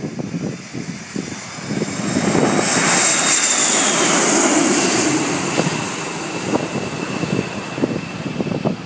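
Fixed-wing airplane passing overhead: its engine noise swells to a peak a few seconds in and then fades, with a whine falling in pitch as it goes by.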